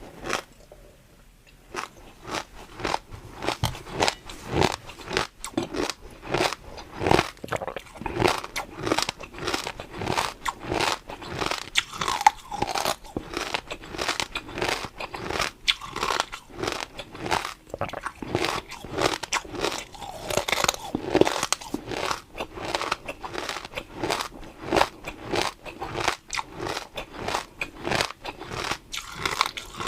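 Close-up crunchy chewing and biting of food, a dense irregular run of crisp crunches that starts after a short pause near the beginning and keeps going.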